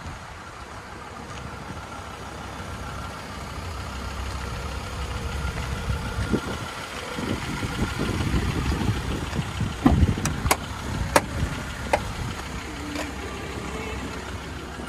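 Car engine idling steadily, with a few sharp clicks about ten to twelve seconds in as a car door is opened.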